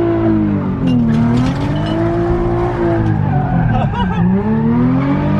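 Nissan 350Z's 3.5-litre V6 revved hard, its pitch dropping and climbing back twice, with a rear tyre squealing as it spins. Only one rear wheel is spinning, a one-wheel peel from the car's stock open differential.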